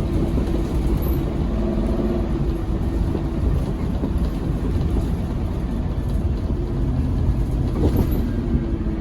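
A Scania K270UB6 Omnilink bus under way, its five-cylinder diesel engine and drivetrain running with a steady low rumble and an engine note that shifts in pitch. A short knock comes about eight seconds in.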